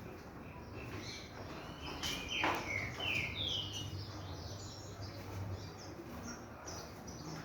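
Small pet birds chirping: many short, high chirps, several sliding down in pitch, with one louder call a little after two seconds in.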